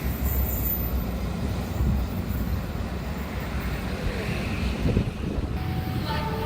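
Train rumbling past a level crossing: a steady low rumble, with the higher wheel noise dropping away about a second in.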